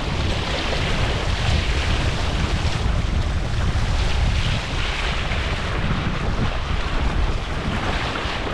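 Wind buffeting the microphone, a steady low rumble, with water washing and splashing along a boat.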